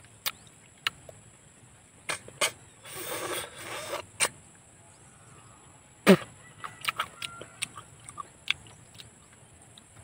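Snails being sucked out of their shells: a few loud slurping sucks, the loudest about six seconds in. Between them, sharp clicks of the snail shells knocking together as they are picked from the pile.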